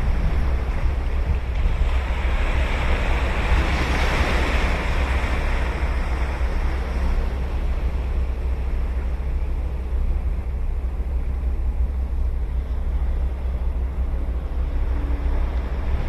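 Ocean surf breaking and washing on a beach, one wave swelling to a peak about four seconds in and then subsiding into a steady wash. Wind buffets the microphone throughout as a low rumble.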